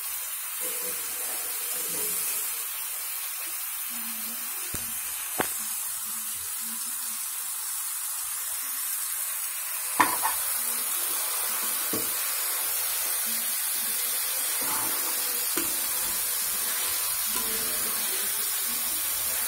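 Raw chicken pieces sizzling steadily in hot oil and onion-spice masala with curd in a pressure cooker as they are stirred in with a metal spoon. The spoon knocks sharply against the pot a few times, loudest about ten seconds in.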